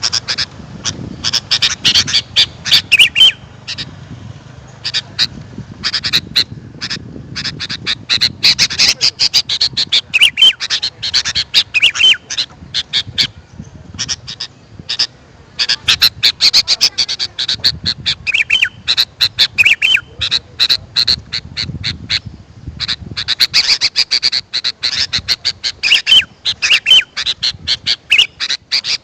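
Sooty-headed bulbuls (kutilang) calling: quick runs of sharp chattering and whistled notes in clusters, with short lulls between them, a call used to lure wild birds.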